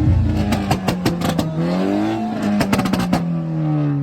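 A car engine revving: its pitch climbs, then slides down over the last second, with a rapid string of sharp cracks along the way.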